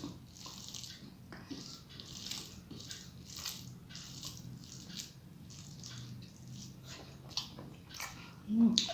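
Close-up eating sounds: wet chewing and lip smacks from a mouthful of rice with spinach ghonto, coming about twice a second. A short closed-mouth hum near the end.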